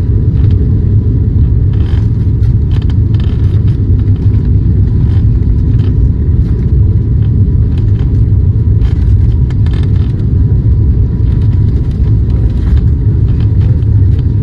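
Cabin noise inside an ATR turboprop airliner: the engines and propellers make a loud, steady low drone with a thin steady whine above it. Brief scattered rattles sound through the cabin.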